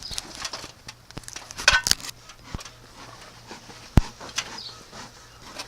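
Scattered clinks and knocks of metal and hard gear being handled and set down, with a short ringing clink a little under two seconds in and one sharp knock about four seconds in, the loudest.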